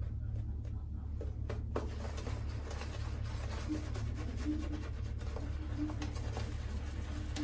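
Shaving brush swirling and scrubbing through shaving soap lather, a soft continuous scratchy rubbing full of small clicks, over a steady low hum.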